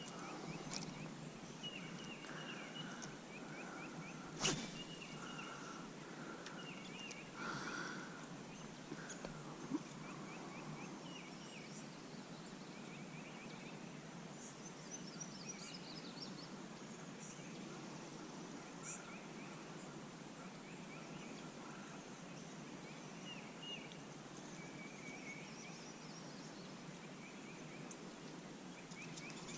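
Birds calling repeatedly in short chirping phrases over a steady background hiss, with a single sharp click about four and a half seconds in.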